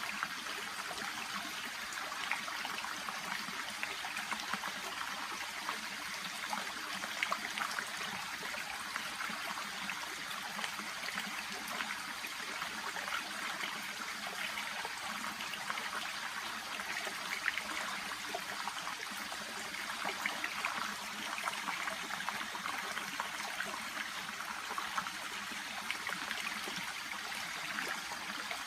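A shallow brook babbling and trickling steadily, with many small splashes and gurgles.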